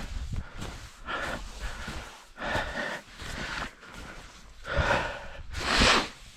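A person breathing hard, a loud breath roughly every second: the panting of a tired skier.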